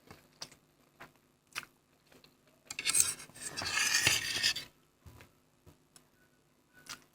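Sounds of eating Maggi instant noodles from a dish: a few light clicks of cutlery against the dish, then a loud, noisy stretch of about two seconds in the middle, followed by a few more clicks.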